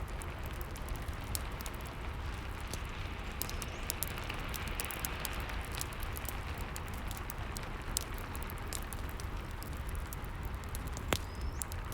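Steady rain falling together with a fireplace crackling: a constant hiss of rain with scattered small sharp pops from the fire, one louder pop near the end.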